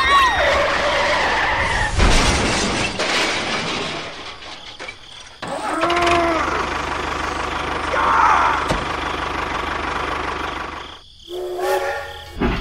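Small motor of a toy tractor running with a steady whirring hiss, with short gliding pitched sound effects laid over it at the start and again about six seconds in. A brief steady pitched tone sounds near the end.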